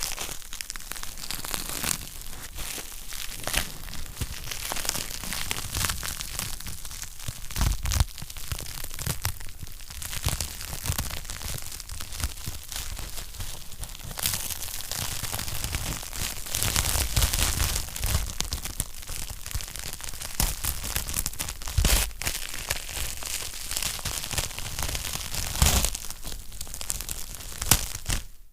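Wood fire crackling in a fireplace: a dense, continuous run of small crackles and snaps, with a few louder pops scattered through.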